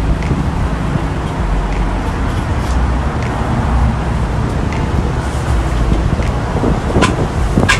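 Steady road-traffic rumble with wind buffeting the microphone, and a couple of short sharp clicks near the end.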